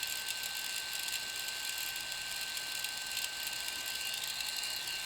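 DJI Phantom 3 Professional's camera gimbal making a steady grinding, ratchet-like chatter over a constant high whine while the drone is powered on. The owner takes the noise for a fault: it doesn't sound right and may come from the gimbal's plastic transport holder having fallen off in shipping.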